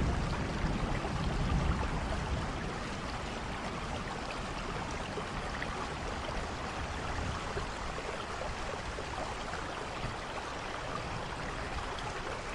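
Steady rain hiss, with the low rumble of thunder dying away in the first two seconds.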